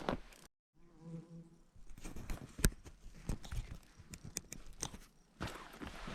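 A fly buzzes briefly about a second in, followed by footsteps crunching on dry, stony ground with scattered sharp clicks.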